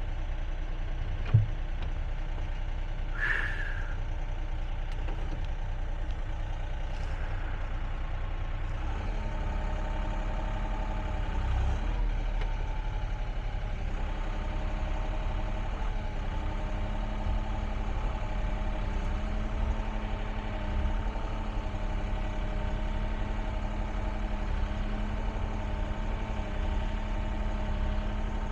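Excavator diesel engine running steadily, with a sharp click about a second in. About nine seconds in, the engine note firms up and a steady whine joins, holding to the end.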